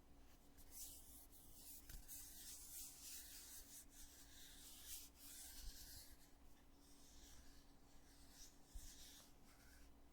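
Soft, scratchy rubbing on a foundation container, strongest from about one second in to about six seconds, then fainter and patchier.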